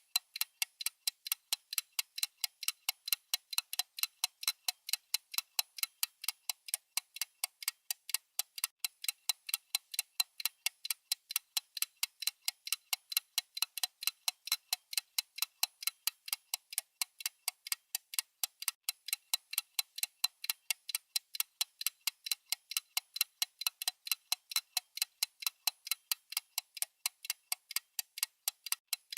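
Clock ticking sound effect of a countdown timer: a steady, even ticking of about four ticks a second, alternating louder and softer.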